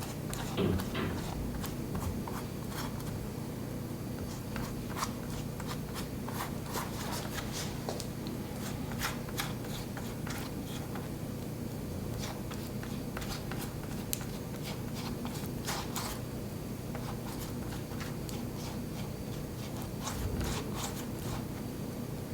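Scattered light taps, clicks and scrapes of objects being handled and set down, over a steady low hum.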